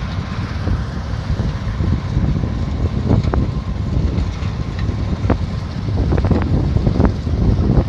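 Combine harvester running, a steady low rumble with a few short knocks, with wind buffeting the microphone.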